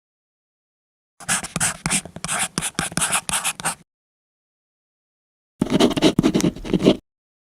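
Two separate bursts of scratchy writing-on-paper sound, the first about two and a half seconds long and full of quick strokes, the second just over a second with a fuller, lower rustle, each cut off into dead silence.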